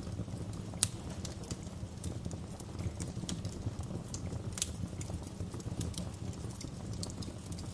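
Wood fire crackling: irregular sharp pops and snaps over a steady low rumble of burning flames, with one louder pop about a second in and another just past halfway.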